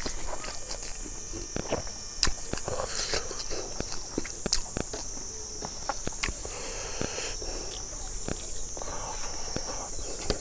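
Close-miked eating sounds: irregular wet chewing, lip smacks and small clicks as rice and roasted chicken are eaten by hand. A steady high-pitched drone runs behind them.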